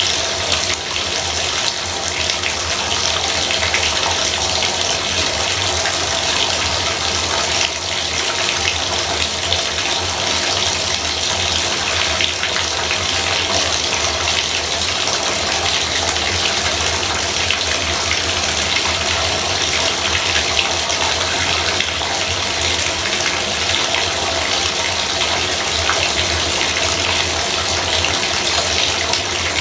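Bathtub faucet running, water pouring steadily into the tub, with a faint low hum under it.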